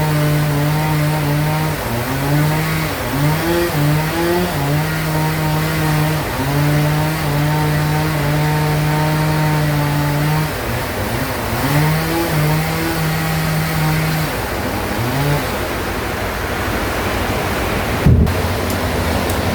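Sawmill bandsaw running and cutting a large log. Its motor hum holds steady, then dips and wavers several times before settling again, over a constant sawing hiss. A sharp click comes near the end, after which only a steadier noise remains.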